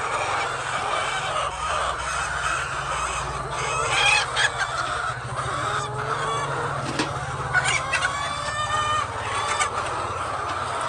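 Chickens clucking and squawking, with a cluster of short calls about four seconds in and a quick run of calls later on, over a steady low hum.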